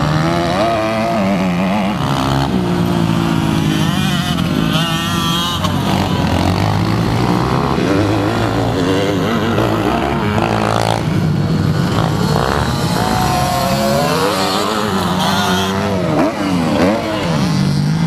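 Several motocross bike engines revving, their pitches rising and falling and overlapping.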